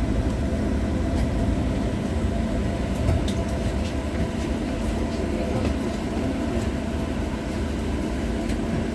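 Inside an LVS-86K articulated tram running along the track: a steady low rumble of the wheels on the rails under a steady hum, with faint clicks and rattles here and there.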